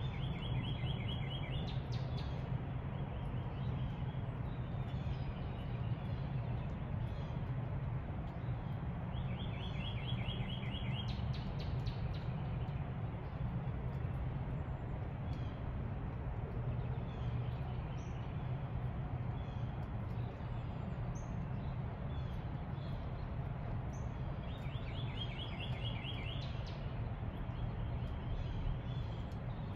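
Songbirds in a backyard: a short, fast run of repeated notes sung three times, with scattered chirps between, over a steady low background rumble.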